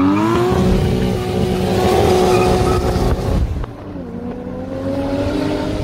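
Turbocharged 2JZ inline-six in a Toyota Hilux accelerating hard, its pitch rising through a gear, dropping briefly at a gear change about three and a half seconds in, then climbing again.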